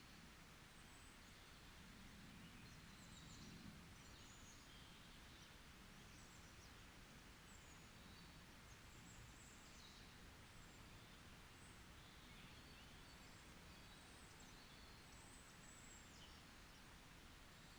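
Faint birdsong: short high chirps and trills scattered throughout, over a steady low background hiss.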